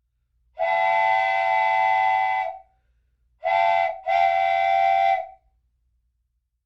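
A whistle sounding three steady, chord-like blasts: one long, one short, then another long.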